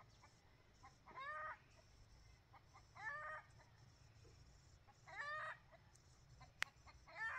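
A bird calling four times, short calls of a few quick notes each, about every two seconds, with one sharp click shortly before the last call.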